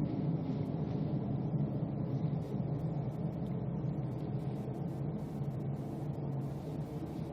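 Steady low droning hum with a few held tones, the "strange sky noise" reported over Prishtina, which the uploader likens to trumpet sounds.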